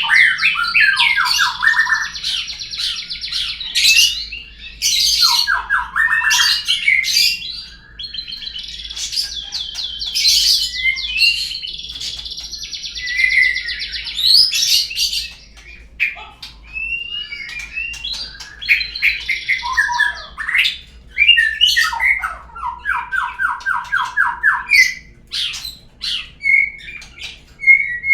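Murai songbird singing a long, varied lure (pancingan) song, the kind played to set a caged murai singing: loud whistled phrases broken by quick trills of repeated notes, with short pauses between them.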